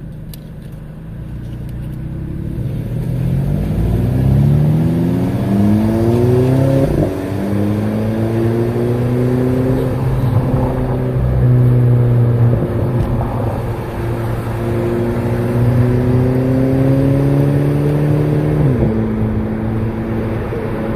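Turbocharged car engine with a K04 turbo and aftermarket exhaust accelerating hard: the pitch climbs for several seconds, drops sharply at a gear change about seven seconds in, pulls on through the next gear, and drops again near the end.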